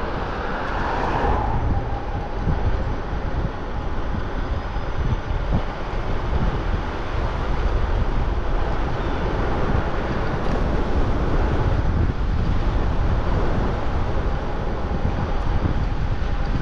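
Steady wind buffeting the microphone, with low road rumble from a moving e-bike.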